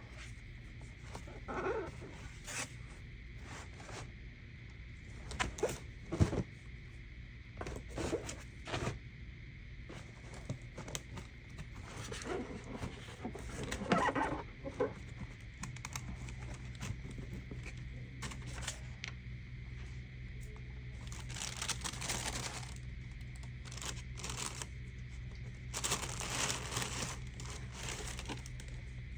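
Shoe packaging being handled: paper rustling and crinkling in irregular bursts, with scattered taps and clicks, over a steady low hum.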